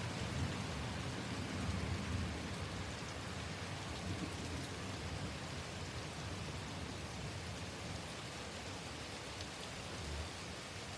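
Heavy rain falling steadily, with a low rumble of thunder in the first few seconds that slowly dies away.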